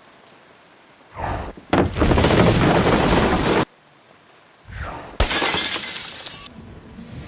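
Two loud crashes of things smashing and shattering, each lasting a second or more and cutting off abruptly, the first about two seconds in and the second about five seconds in. A short swell of sound leads into each crash.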